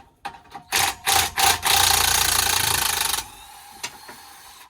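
A handheld power tool runs in several short bursts, then in one longer burst of about a second and a half, then settles to a quieter steady whir.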